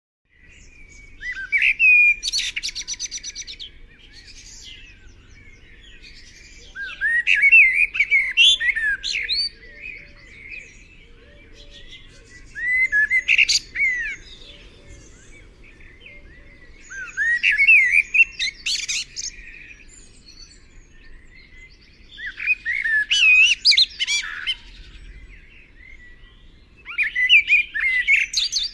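A songbird singing: six rich, warbling song phrases of about two seconds each, repeated roughly every five seconds, with trills and chirps between them.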